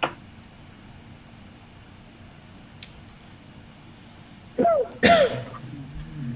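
A person coughs twice in quick succession about four and a half seconds in. Single sharp clicks come at the start and near three seconds.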